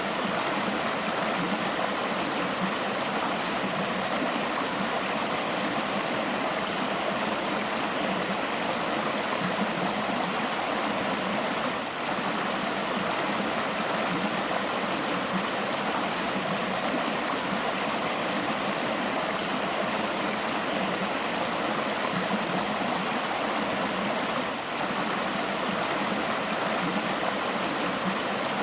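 River flowing: a steady, even rush of running water.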